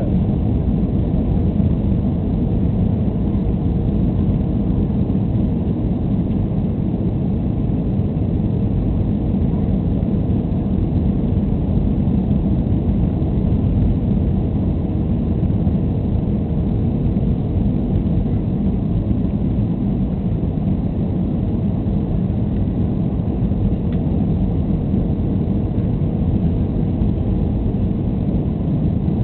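Steady low rumble of a Boeing 737-300's CFM56 engines and airflow, heard from inside the passenger cabin.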